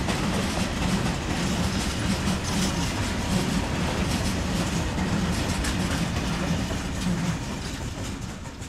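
A train rolling past on the track, its wheels clattering rhythmically over the rail joints; the noise fades away near the end as it passes.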